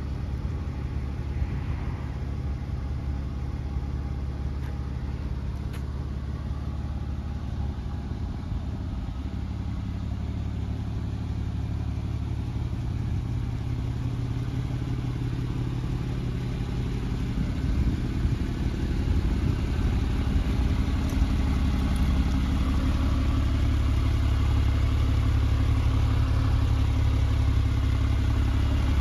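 Porsche 996 Carrera 4S's 3.6-litre flat-six idling steadily, growing louder in the second half as the exhaust tailpipes come nearer.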